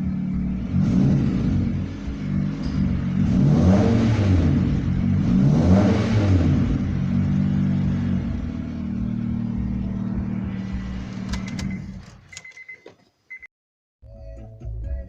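Car engine revved twice, then running steadily before cutting off abruptly near the end, with a few clicks as it stops.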